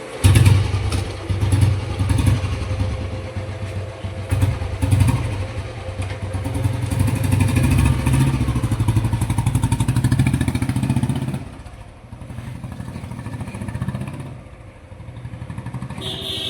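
Rebuilt Royal Enfield Bullet 350 cast-iron single-cylinder engine starting abruptly and being revved in uneven blips for about ten seconds, then dropping back to a quieter idle.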